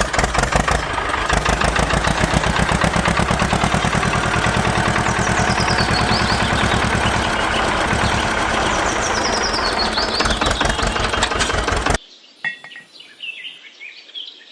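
A machine's engine running loudly with a fast, even pulse, cutting off abruptly about twelve seconds in; faint bird-like chirps follow in the quieter stretch.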